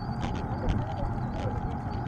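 Mountain bike being ridden: steady rumble of wind and tyres on the microphone with a continuous run of rattling clicks.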